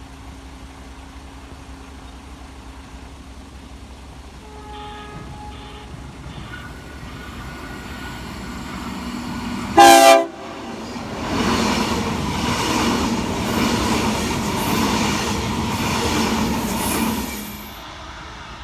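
Train horn sounding a few faint short notes, then one short loud blast about ten seconds in. The train then rushes past with a loud rolling noise for about six seconds, which drops away near the end as it clears.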